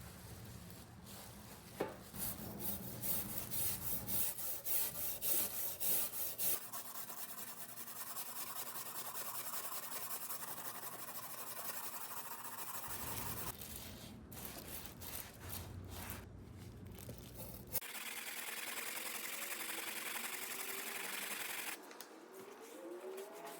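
Rust being scrubbed and sanded off an old metal toolbox: a run of quick back-and-forth strokes, then longer stretches of steadier rubbing, changing abruptly several times.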